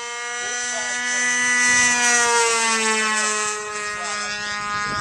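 Radio-controlled model airplane's motor and propeller making a steady whine as it flies past. It grows louder to a peak about two seconds in, then drops slightly in pitch as it moves away.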